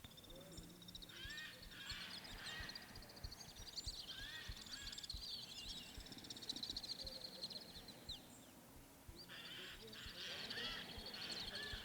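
Faint birdsong: several short chirping calls and fast high trills from wild birds, over a quiet outdoor background.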